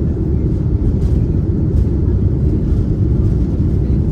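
Boeing 787-9 cabin noise: the steady, loud rumble of the engines and rushing airflow heard inside the passenger cabin while climbing out after take-off.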